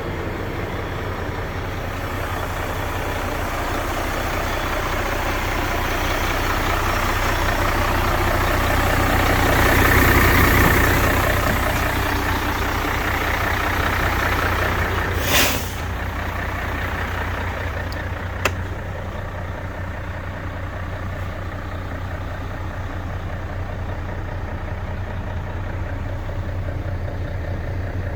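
Mercedes-Benz Actros 2541 truck's diesel engine running steadily, building up to a peak about ten seconds in and easing back. About fifteen seconds in comes a brief hiss of air from the air brakes, and a single click follows a few seconds later.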